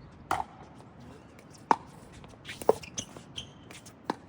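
Pickleball rally: sharp pops of paddles striking the plastic ball, four main hits roughly a second apart, with lighter taps and shoe scuffs on the court between them.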